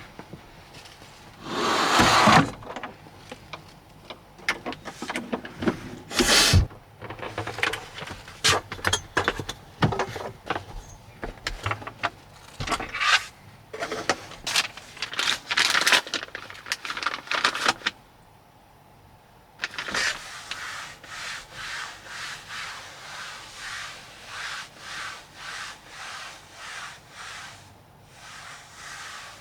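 Rubbing and scraping: irregular scrapes and a few knocks, then, about two-thirds of the way through, a run of even rubbing strokes, about three every two seconds.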